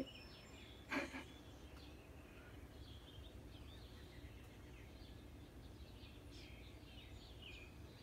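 Faint, scattered chirps of small birds over a low steady background hum, with one short louder sound about a second in.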